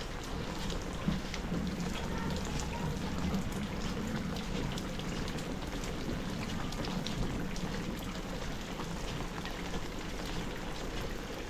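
Heavy rain hitting an umbrella, heard through a camera fixed to the umbrella: a steady, dense rush of falling rain with many small separate drop hits.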